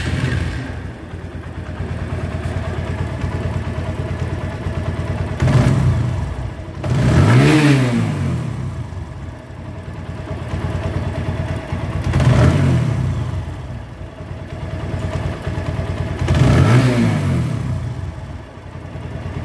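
TVS Apache RTR 150's single-cylinder four-stroke engine, freshly rebuilt, idling and revved three times, each time rising and falling back to idle.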